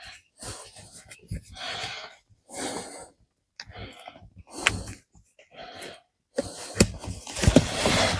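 Short breathy bursts about a second apart, like hard breathing, then denser rustling with a few sharp knocks near the end.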